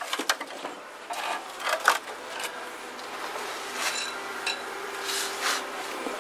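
Irregular rasping, scraping strokes against rusted car-body sheet metal, with a faint steady machine hum underneath that grows a little stronger about halfway through.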